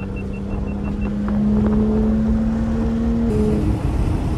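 Porsche 911 GT3's 4.0-litre flat-six heard from inside the cabin, its note climbing slowly under acceleration, with a run of short high beeps in the first second. About three seconds in, it cuts abruptly to the engine and road noise of another car's cabin.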